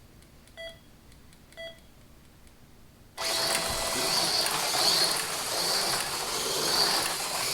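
Race timer counting down with short beeps a second apart, then about three seconds in a longer start tone as two AFX Mega G+ HO slot cars take off. Their small motors and pickups make a loud, steady whirring rattle that pulses as they lap the track.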